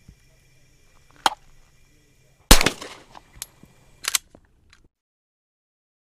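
Handgun handling with a single loud, sharp shot about two and a half seconds in, which dies away over half a second. A sharp metallic click comes before it, and a few lighter clicks follow, including a quick double click.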